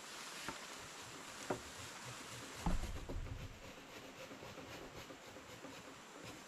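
A few short, sharp knocks over a steady faint hiss, the loudest a dull thump about two and a half seconds in.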